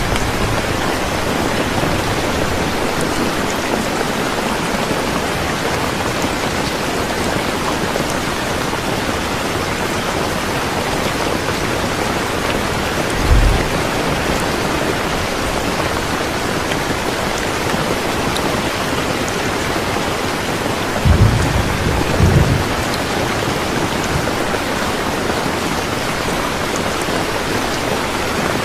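Steady rain pouring down, an even hiss of drops, with short low rumbles of thunder about halfway through and twice more in quick succession later on.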